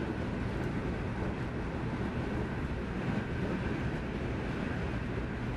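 Cabin noise inside a Stockholm X10 electric commuter train running at speed: a steady low rumble of the wheels and running gear on the track.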